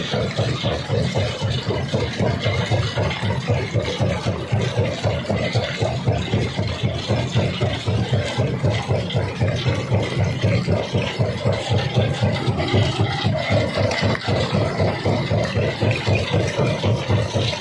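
Jaw rock crusher running, a steady machine sound with a fast, even pulse and some rattling.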